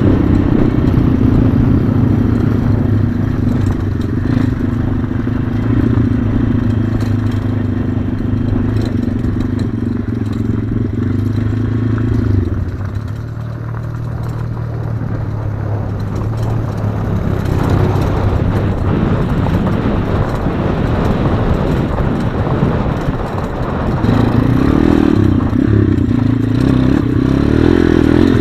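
Single-cylinder four-stroke pit bike engine running. Its note fades about halfway through, then builds back up and is loud again near the end.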